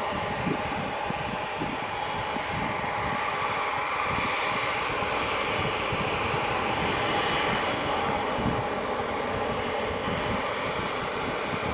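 Jet engines of an Airbus A350-900, its Rolls-Royce Trent XWBs, running with a steady, even rush of noise and a faint steady hum underneath.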